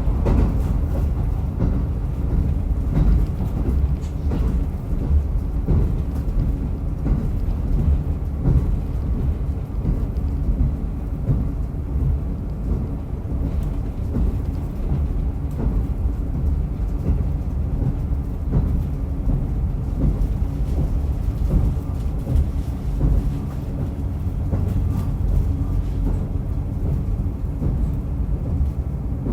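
Diesel railcar running along the line, heard from on board: a steady low rumble of engine and wheels on the rails, with faint scattered clicks.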